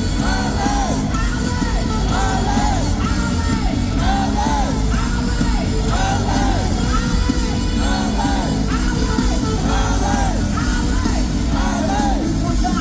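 Live funk band playing at full volume, with a steady groove under short yelled and sung vocal phrases that rise and fall and repeat about once a second.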